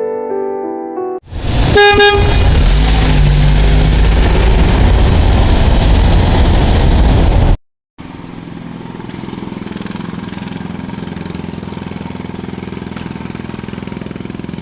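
A vehicle horn toots briefly over loud engine noise, which cuts off abruptly. After a moment's gap, a quieter vehicle engine runs steadily.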